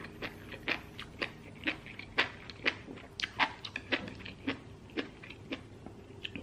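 Close-miked chewing and mouth sounds of a person eating a mouthful of rice and beef: short, irregular smacking clicks about twice a second.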